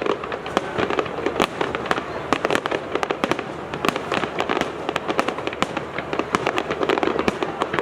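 Fireworks display going off continuously: a dense run of sharp cracks and bangs, several a second, over a steady rumble of shells bursting.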